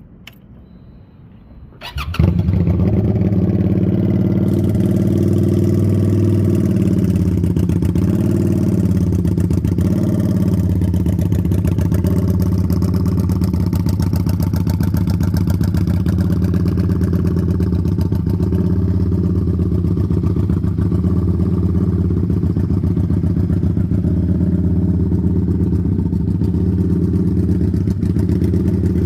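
QJ Motor SRV 300 motorcycle engine started about two seconds in, then idling steadily through its exhaust, the idle wavering a little for a few seconds after it catches.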